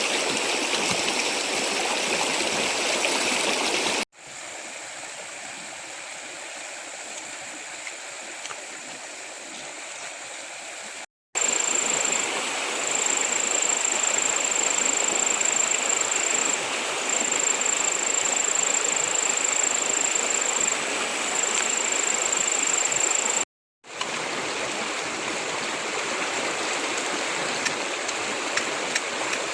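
Stream water running steadily, in several shots cut together with brief silent gaps between them. Through the middle shot a steady high-pitched whine sits above the water.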